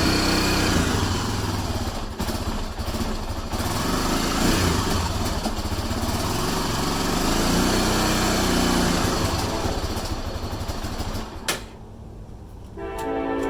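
ATV engine running after a cold start on a chilly morning, blipped up and down twice, then cutting out with a click about eleven seconds in. Near the end a steady multi-tone train horn starts to sound.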